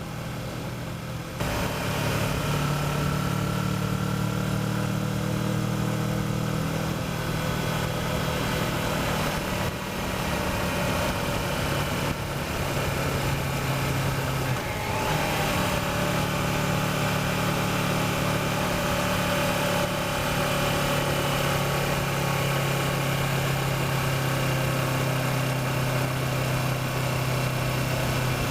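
Kawasaki Versys motorcycle engine running steadily while riding, its note shifting a couple of times midway.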